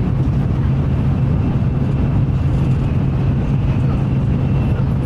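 Shinkansen high-speed train running steadily, a continuous low rumble with a faint high whine above it.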